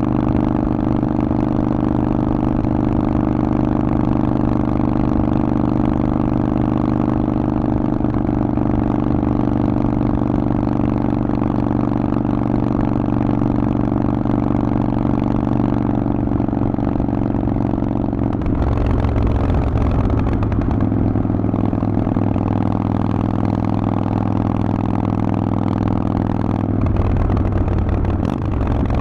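Harley-Davidson Forty-Eight's 1200 cc V-twin running through a Vance & Hines exhaust at steady revs. The engine note changes about two-thirds of the way through and again near the end.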